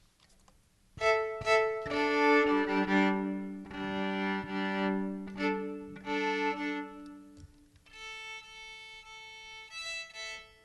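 Fiddle bowed in slow, held notes over a sustained lower note, starting about a second in and fading near the end.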